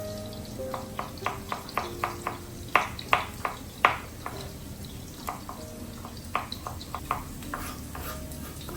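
A cooking utensil clicking and knocking against a pan in irregular strokes while food is stirred over a faint sizzle, loudest about three to four seconds in. Soft music plays underneath.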